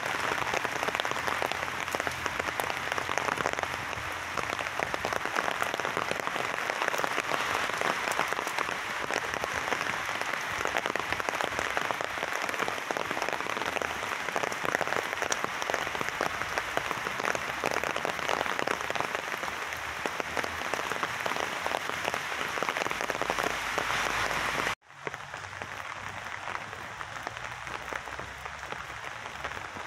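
Heavy rain falling steadily on wet paving and trees: a dense, even crackle of countless drops. About 25 s in the sound cuts out for an instant and comes back quieter.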